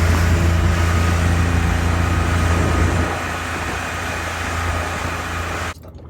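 A small fishing boat's engine running steadily with a low hum, cutting off suddenly near the end.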